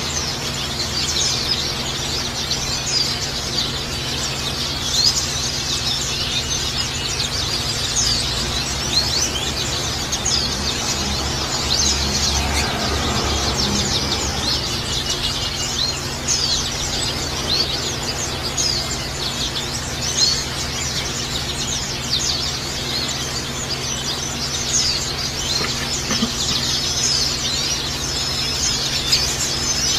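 Water trickling and splashing with white-eyes (pleci) chirping rapidly and continuously over it, as a water-therapy track to calm a caged pleci and prompt it to sing.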